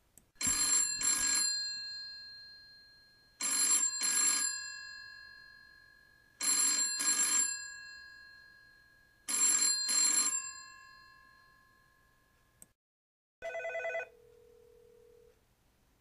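Classic telephone bell ringing in a double-ring pattern: four pairs of short rings about three seconds apart, each pair ringing out slowly. Near the end comes a click, then a short buzzy tone and a steady low tone lasting about a second.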